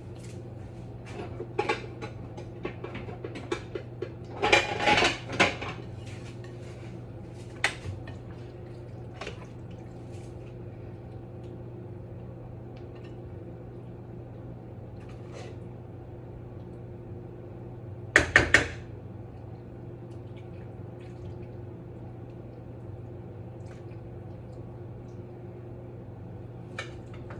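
Dishes and serving utensils clinking and clattering as pasta is served onto plates, with louder clatters about five seconds in and again around eighteen seconds. A steady low hum runs underneath.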